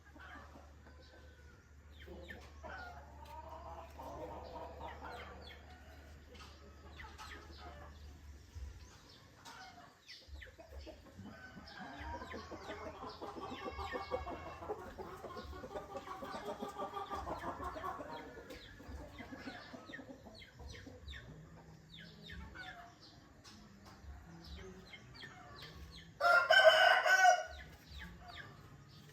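Morning yard ambience of domestic chickens clucking and a rooster crowing at a distance, over many small bird chirps. Near the end comes one much louder, closer call lasting over a second.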